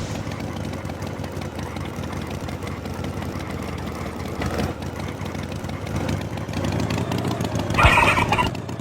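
Farm tractor engine running steadily, a cartoon sound effect, with a brief louder sound near the end.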